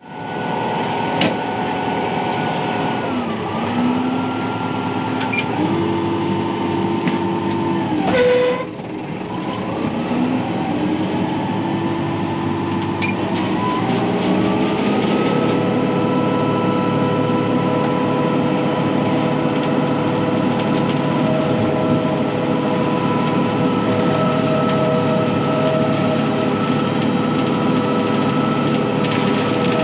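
Kubota M4-071 tractor's diesel engine running with its hydraulic tree saw driven, a steady mechanical drone with a whine on top. The pitch dips and recovers a few times in the first half, with a brief loud surge just past eight seconds. From about halfway it settles higher and holds steady.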